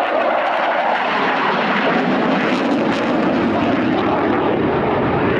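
A Saab 35 Draken jet fighter's engine roaring past in a flying display, a steady loud rush of jet noise with the low rumble building after about two seconds.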